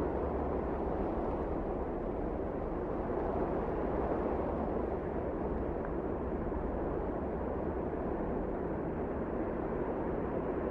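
Steady wind blowing, a dull, even rush with no single gust standing out.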